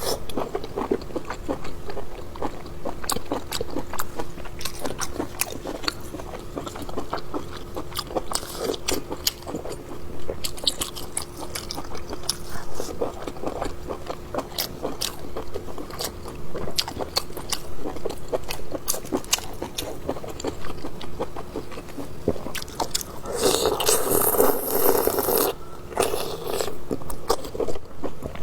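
Close-up mukbang eating sounds: biting and chewing braised pork small-intestine circle sausage, with many short wet mouth clicks. A louder two-second rustling burst comes near the end.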